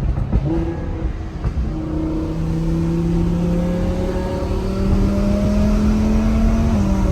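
Twin-turbocharged Audi R8 engine heard from inside the car, its pitch climbing steadily as the car accelerates, then dropping at an upshift near the end.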